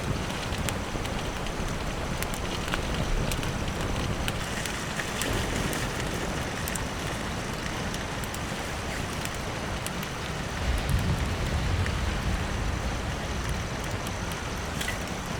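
Steady rain falling, with scattered sharp ticks of single drops and a louder low rumble about eleven seconds in.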